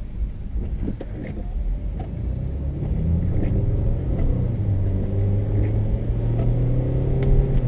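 Car engine and road noise heard from inside the cabin. The engine note grows louder and rises slightly from about three seconds in as the car picks up speed.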